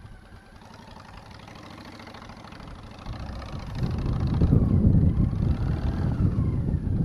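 Motorcycle engine running quietly, then getting much louder about three seconds in as the bike is revved and pulls away.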